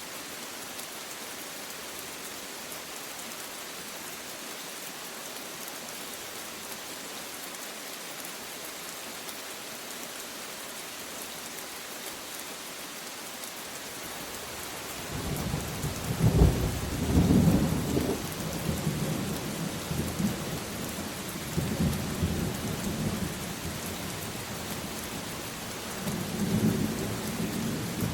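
Steady rain hiss, joined about halfway through by rolling thunder: a deep rumble that swells loudest a couple of seconds after it starts and keeps rolling in waves to the end.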